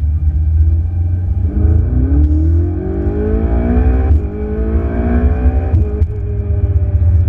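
Ferrari 488 GTB's twin-turbo V8 accelerating over a steady low rumble: the revs climb from about a second and a half in, break at a gear change about four seconds in, climb again, and drop at a second shift near six seconds.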